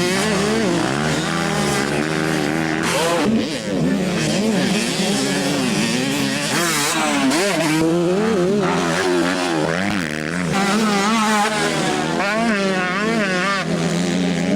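Several motocross motorcycle engines running at once, their pitch rising and falling constantly as the bikes rev, accelerate and back off.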